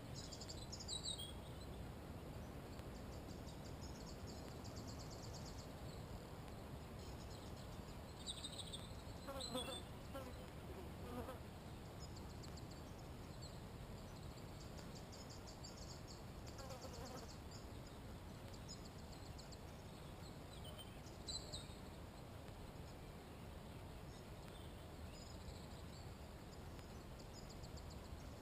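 Songbirds singing short high phrases and fast trills every few seconds, over a faint steady background with insects buzzing.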